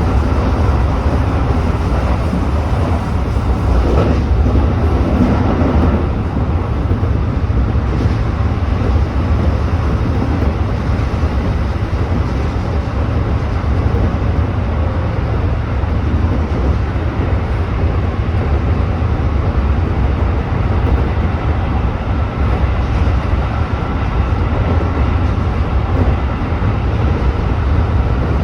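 Tobu 8000-series electric commuter train running at speed, heard from inside the leading car: a steady low rumble of wheels on rail and running gear.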